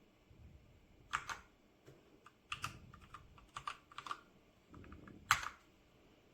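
Keys being typed on a 60% mechanical keyboard with red linear switches: scattered, uneven keystroke clicks, a few in quick clusters, with one louder strike about five seconds in.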